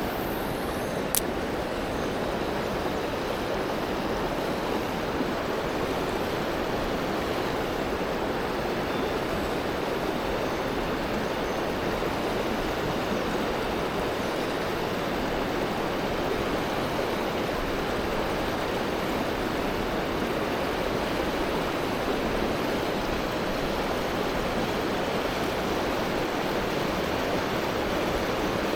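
Steady rushing of flowing river water, with a brief click about a second in.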